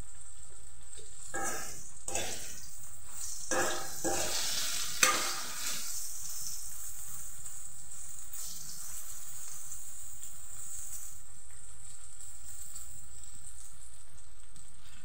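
Whole jujubes (bwigri) frying in oil in a steel kadai, a steady sizzle. A metal spoon stirs and scrapes through them for the first few seconds, with one sharp clink of spoon on pan about five seconds in. Then the sizzle goes on alone.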